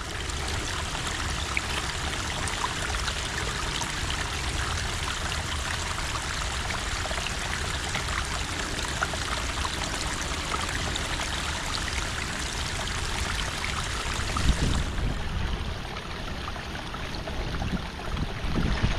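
Water running steadily at a beaver dam that is blocking a culvert's outflow, with a few low bumps near the end.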